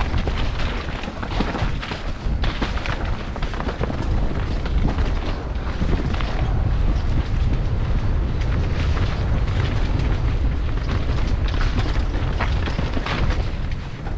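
Wind buffeting a helmet- or body-mounted camera's microphone at speed, with the mountain bike's tyres rumbling and the bike rattling over a dirt trail in many short clicks and knocks.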